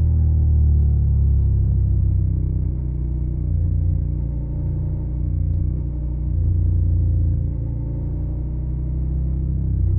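Suzuki SV650's 90-degree V-twin running through a Yoshimura Alpha carbon exhaust, a low rumble. The pitch eases down over the first couple of seconds, and the engine note swells and falls back a few times as the throttle is opened and closed.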